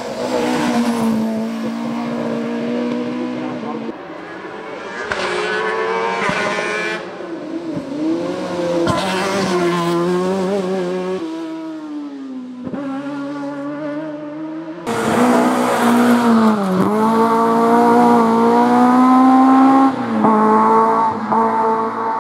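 Hill-climb race cars at high revs, engine pitch climbing and dropping through quick gear changes as the cars accelerate and pass. The loudest car comes through about fifteen seconds in.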